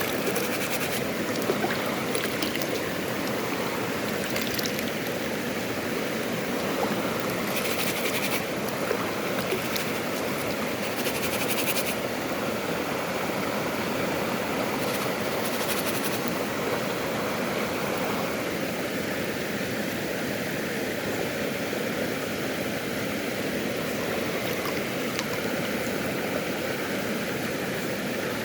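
Steady rush of water from a waterfall and stream, with several short spells of higher hiss in the first half.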